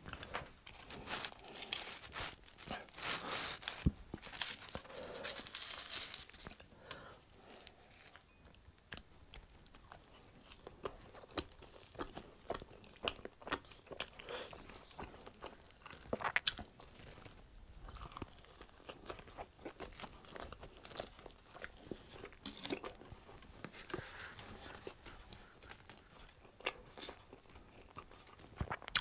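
Pizza crust being bitten and chewed close to the microphone: crisp crunches and clicks, densest in the first six seconds, then sparser.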